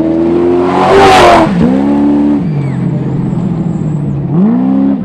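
Class 1 desert race buggy engine revving hard, its pitch climbing and dropping several times as the driver works the throttle and gears. A loud rush of noise comes about a second in.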